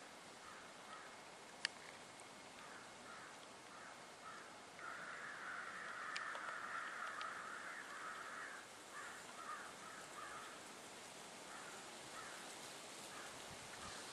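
Several birds calling in short repeated series, swelling into a dense overlapping chorus for about four seconds in the middle. A single sharp click sounds about a second and a half in.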